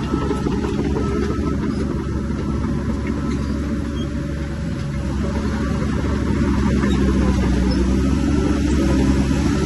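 Heavy diesel earthmoving machinery, bulldozer and dump truck, running with a steady low rumble that grows louder about halfway through as the engine works harder or the machine comes closer.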